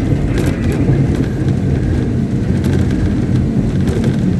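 Caterpillar 777D haul truck's big V8 diesel engine running steadily during a stationary ground test, a deep, even rumble.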